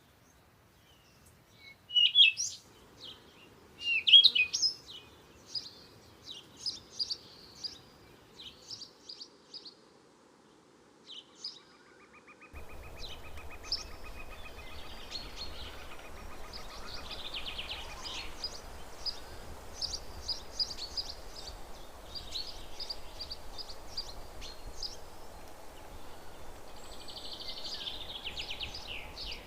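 Wild birds chirping and calling: sharp, separate chirps and short whistles, loudest about two and four seconds in, then a quick trill. About halfway through, the background changes suddenly to a steady hiss with a low hum, under many birds chirping at once.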